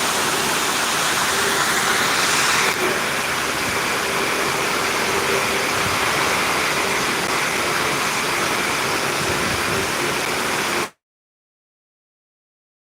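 Heavy rain falling as a steady hiss, with a faint steady hum underneath; the sound cuts off suddenly to dead silence near the end.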